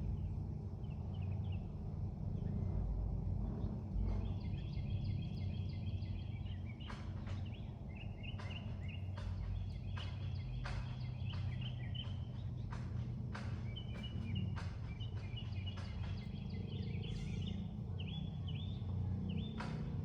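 Steady low engine rumble from motorcycles running nearby, with many short, high bird chirps over it.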